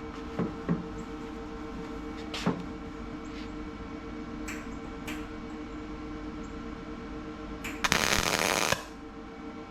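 A few light clicks and knocks of handling, then a MIG welder laying a single tack weld: a harsh crackling burst of about a second near the end, over a steady hum. The weld is made with the shielding gas accidentally left off.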